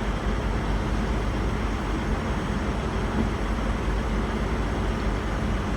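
Diesel passenger trains idling, a steady low engine sound with a faint hum that does not change.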